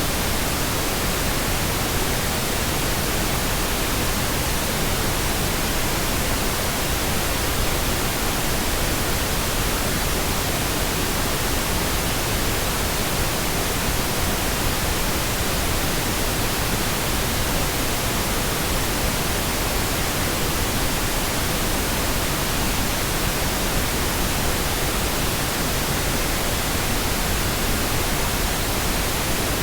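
Pink noise: a steady, even hiss with no changes, a synthetic test signal of the kind used for breaking in headphones.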